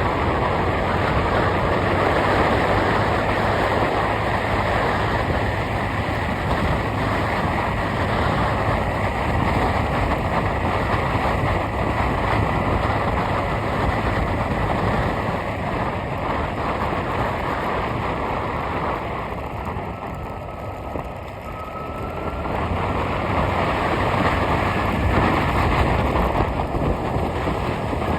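A vehicle on the move: steady engine and road noise, easing off briefly about twenty seconds in and building again.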